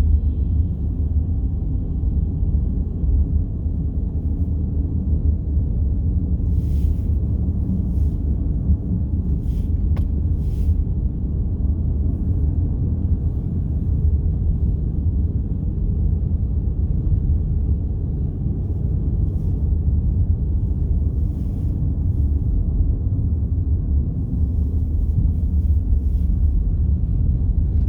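Steady low road rumble of a car driving at highway speed, heard inside the cabin, with a few faint ticks here and there.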